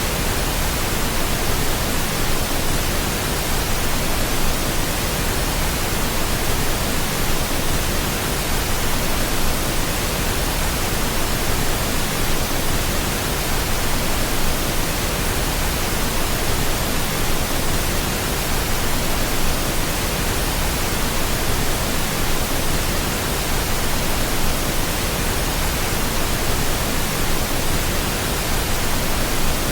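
Steady pink noise: an even, unchanging hiss across the whole range, a continuous generated sleep sound.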